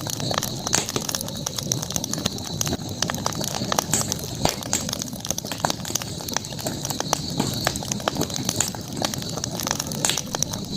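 Campfire crackling: many small irregular pops and snaps over a low steady rush of burning wood, with a steady high-pitched background sound underneath.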